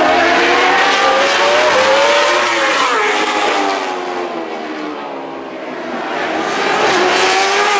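Superbike racing motorcycles at high revs passing at speed, the engine pitch sliding down as they go by. Quieter for a moment midway, then another bike comes in loud near the end.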